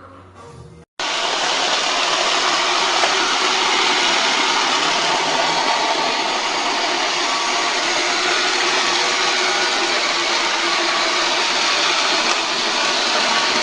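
Vacuum cleaner running steadily with an even rushing noise, starting abruptly about a second in.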